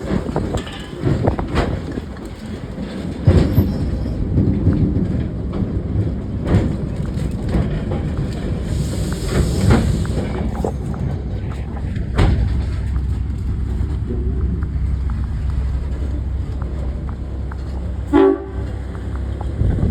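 Train running on the rails, with a steady low rumble and wheels clicking over the rail joints. A short horn toot sounds near the end.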